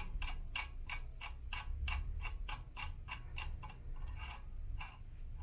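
Ratchet wrench clicking in a steady run, about three to four clicks a second, as a locking nut is run onto an elliptical's crank; the clicks thin out and stop near the end.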